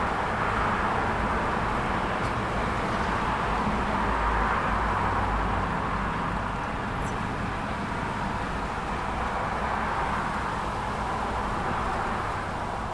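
Steady road traffic: the hum and tyre noise of passing cars, swelling and easing, with a couple of faint, short high bird chirps.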